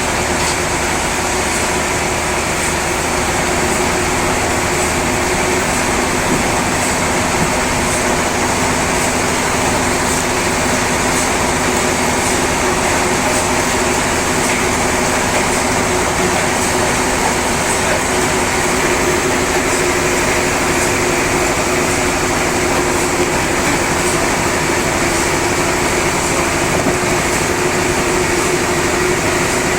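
Sawmill saw running steadily through a large log, a loud even machine noise with a few steady tones and a faint high tick repeating a little under once a second.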